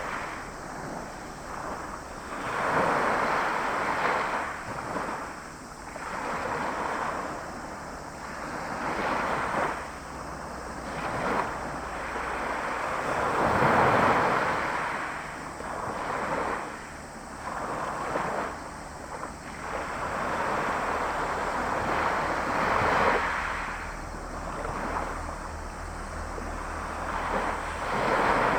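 Small sea waves breaking and washing onto a beach, a surge every two or three seconds, with wind buffeting the microphone, strongest near the end.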